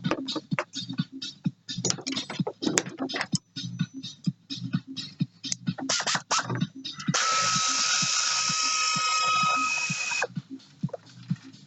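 Rapid clicking of a hand ratchet wrench working fasteners on a Yamaha XLT jet-ski engine, followed about seven seconds in by a loud, steady hiss with a thin whistle from a compressed-air tool that runs about three seconds and stops suddenly.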